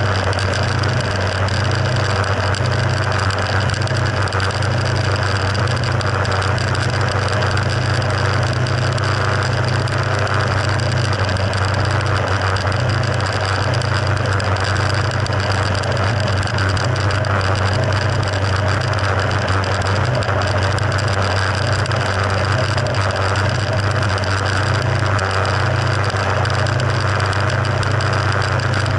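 Mercury F60 four-stroke 60 hp outboard motor running steadily, a constant low engine drone under an even rushing hiss.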